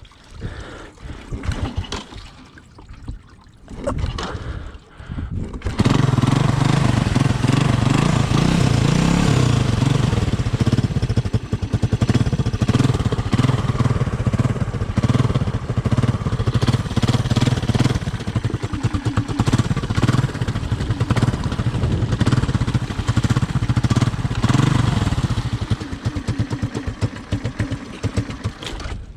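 Honda ATC 200M's single-cylinder four-stroke engine starting: it catches suddenly about six seconds in and then runs loudly and steadily.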